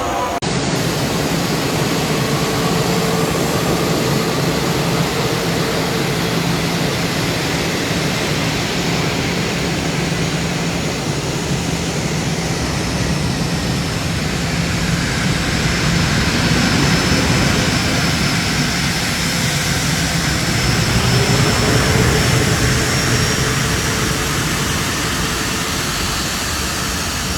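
A Boeing 777X's GE9X turbofan engines running, a loud, steady jet roar with whining tones in it. One tone sinks and climbs again partway through, and the sound swells somewhat in the second half.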